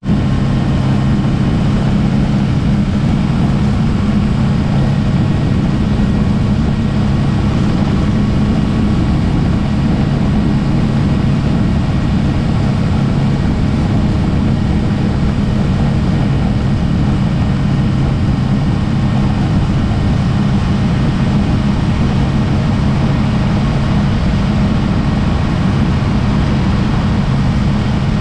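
Steady low engine drone with a constant hum and rushing noise, unchanging throughout.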